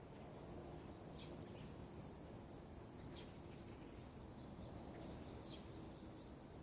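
Faint, scattered bird chirps, three short high calls about two seconds apart with a few weaker notes between, over a steady low background noise of the outdoors.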